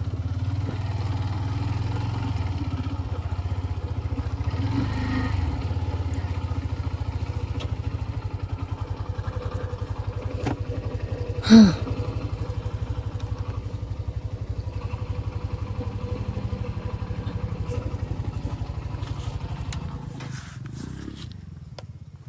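A TVS Ntorq 125 scooter's single-cylinder engine runs steadily while under way. About halfway through there is a short, loud tone that drops in pitch, and near the end the engine sound dies down.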